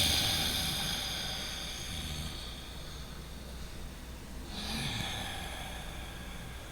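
A person breathing loudly through the nose for relaxation: two long, noisy breaths, each starting suddenly as a rush of air and trailing off over about two seconds, the second about four and a half seconds after the first.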